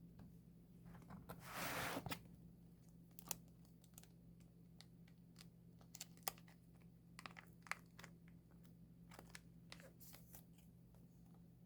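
Soft handling of album packaging: a brief tearing rustle about two seconds in, then scattered light clicks and crinkles.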